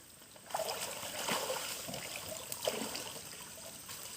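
River water splashing and sloshing, starting suddenly about half a second in, with a few sharper splashes among it.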